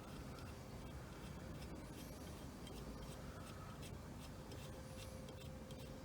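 Faint clicks and rubbing of small screws and metal parts handled by hand as Loctited screws are threaded into a steering-wheel hub adapter, over a steady low hum.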